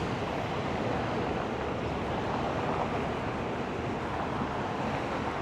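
Steady street noise: traffic running along a main road, mixed with wind on the microphone.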